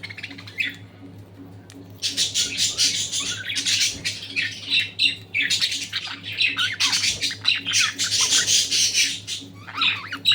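A flock of budgerigars chattering and squawking in rapid, scratchy calls, faint at first and then loud and almost unbroken from about two seconds in.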